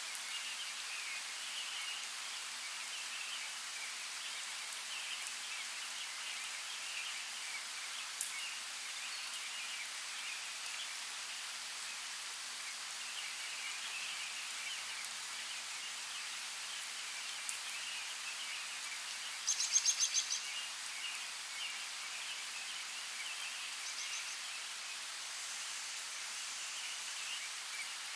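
Steady rain hiss. About twenty seconds in, a short run of quick, high chirps stands out as the loudest sound.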